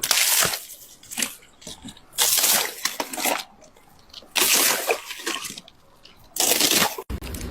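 Storm noise: about five bursts of loud rushing noise, each lasting up to a second, with quieter gaps between them, cut off sharply near the end.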